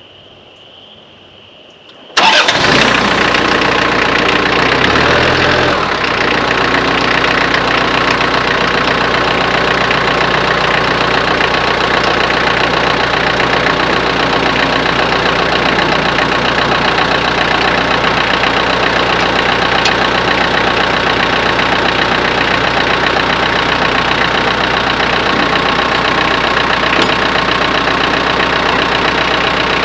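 Branson compact tractor's diesel engine starting about two seconds in, settling within a few seconds and then idling steadily.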